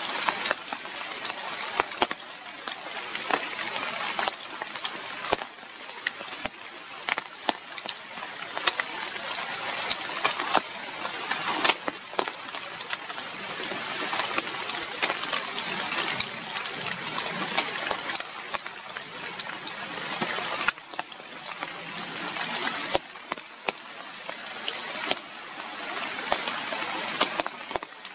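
Rain falling steadily on leaves, a continuous hiss with many individual drops clicking sharply through it.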